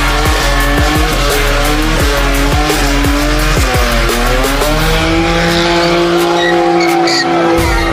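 Car tyres squealing as a car does a burnout, the pitch wavering at first and then holding steady about five seconds in.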